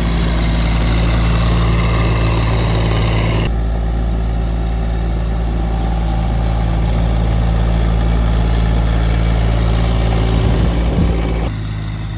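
A vehicle engine running steadily at idle, a low even hum, with a sudden change in its sound about three and a half seconds in and again near the end.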